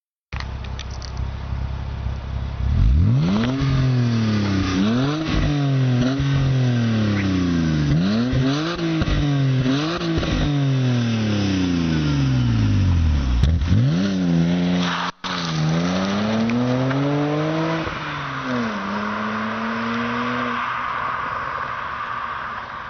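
BMW E92 325i's straight-six through a custom exhaust: it idles, is then revved over and over in quick blips that rise and fall in pitch, and settles back toward idle near the end. The sound cuts out briefly about 15 seconds in.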